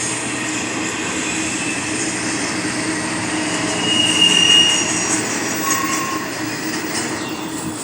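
A train passing close by, its wheels running on the rails with a steady rumble. A short high wheel squeal comes about four seconds in, and a lower one about six seconds in.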